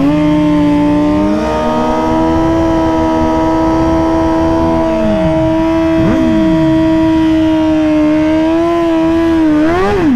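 Motorcycle engine held at a steady high rev, then rising briefly near the end before dropping away, with other engines falling in pitch in the background around the middle.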